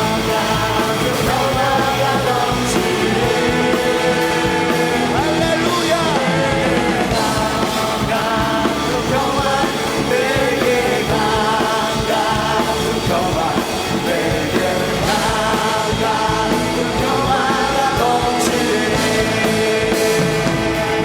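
Korean Christian praise song sung over a rock-style worship band, the singing and band going on without a break.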